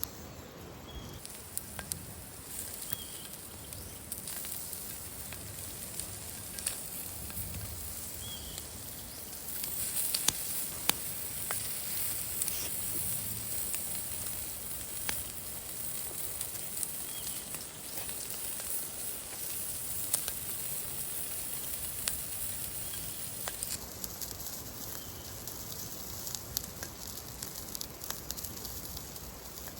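Wood campfire crackling, with a steady hiss and sharp pops scattered throughout; the hiss grows louder for a while in the middle.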